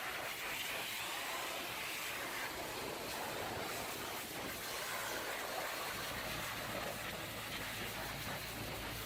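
Pressure-washer spray hissing steadily against a truck, with a low hum joining about six seconds in.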